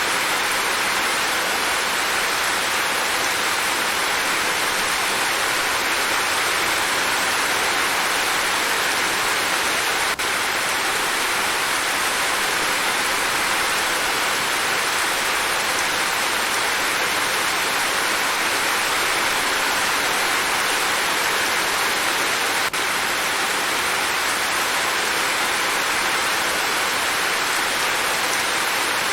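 Rain falling steadily, an even hiss with no separate drops standing out.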